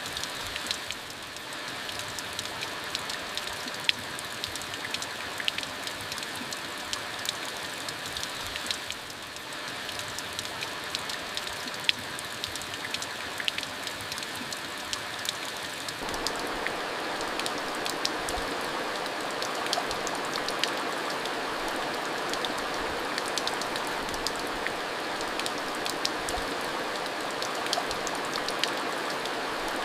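Steady rain falling, with many separate drops ticking through the hiss; it grows louder and fuller a little past halfway.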